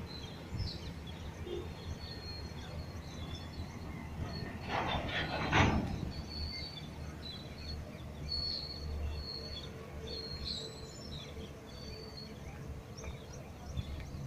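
Outdoor ambience of birds chirping, repeated short high calls over a steady low rumble, with a brief louder rush of noise about five seconds in.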